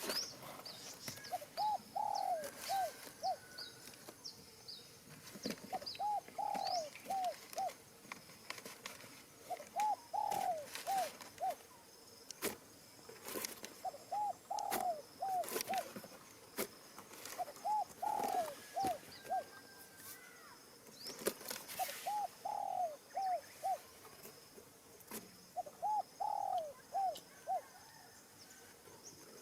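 A dove cooing in short phrases of four or five quick falling notes, a phrase every three to four seconds. Scattered sharp clicks and, in the first few seconds, high chirps from a smaller bird are also heard.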